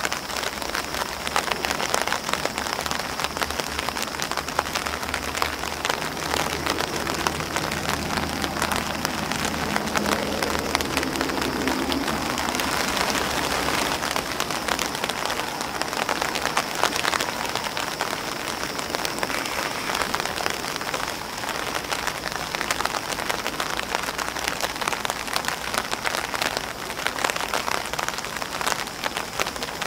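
Steady rain falling on an umbrella and on grass leaves: a dense, constant pattering of many drops.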